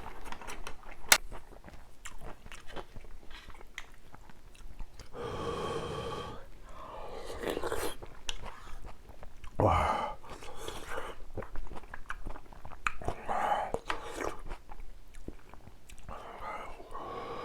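Close-miked mouth sounds of eating ramyun noodles: chewing, with scattered sharp clicks and a few longer, louder noisy stretches lasting a second or two.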